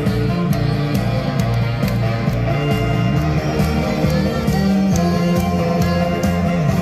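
Saxophone duet playing a Korean trot tune over a recorded accompaniment track with a steady beat.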